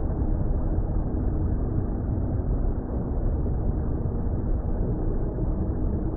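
Steady, muffled underwater water rumble, a deep even noise with faint held tones in it, part of a mixed ambient soundscape.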